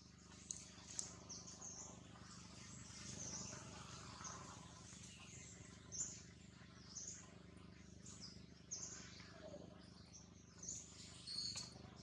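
Faint, high-pitched bird chirps, short and repeated every second or so, over a steady low hum.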